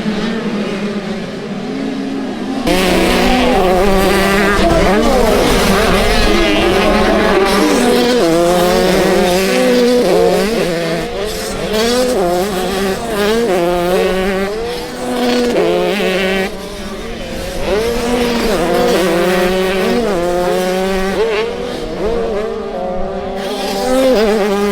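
Several motocross bikes' engines revving and running at once, their pitches rising and falling with the throttle. The sound gets suddenly louder about two and a half seconds in.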